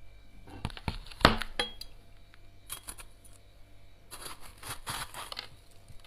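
Sharp clinks and taps of a utensil against a frosted freezer, the loudest with a brief ring, then several short scraping strokes through soft freezer frost.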